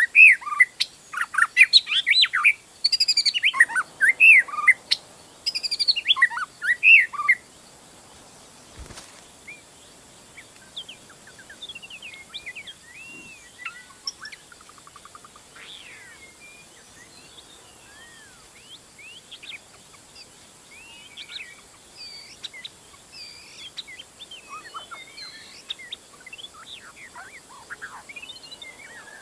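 White-rumped shama (murai batu) singing loud, rapidly varied whistled phrases for the first seven seconds or so. It then stops, there is a single click, and only fainter scattered chirps and short whistles follow.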